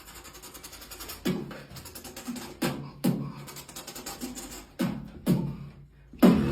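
Beatboxing that imitates a chicken, the "ghost chicken" sound. About six sharp vocal hits, each dropping in pitch, come at uneven intervals over a fast fluttering mouth sound.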